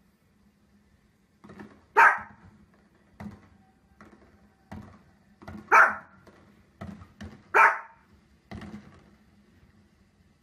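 A small dog barking: three loud, sharp single barks about two, six and nearly eight seconds in, with fainter short pops and knocks in between.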